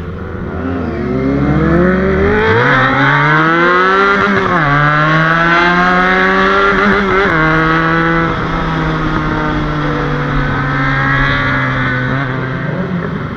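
Motorcycle engine accelerating: the revs climb steadily for a few seconds, then drop sharply at an upshift about four seconds in. Another quick shift or two follows, and the engine then settles into a steady cruise.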